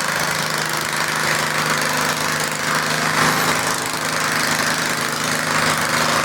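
Garden tractor engine running steadily at an even pitch.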